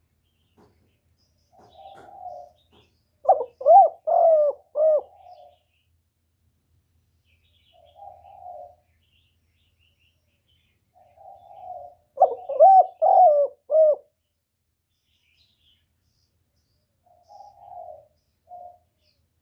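Spotted dove cooing: soft lead-in notes, then a loud phrase of several coos, twice, about nine seconds apart, with soft lead-in notes again near the end.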